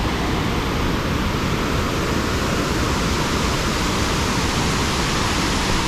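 Large waterfall crashing down, a loud, steady rush of water.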